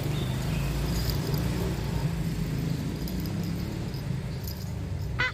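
Steady low outdoor rumble with faint high chirps. A cat's meow begins right at the end.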